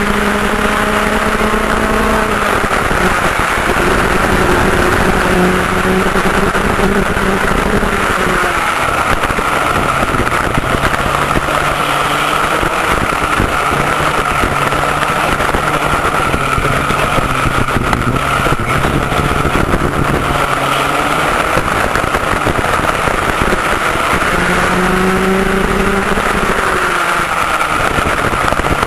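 McCulloch MC91 two-stroke kart engine with an expansion pipe, heard on board at racing speed: its pitch drops and climbs again several times as the kart slows for corners and accelerates out, over a steady high tone.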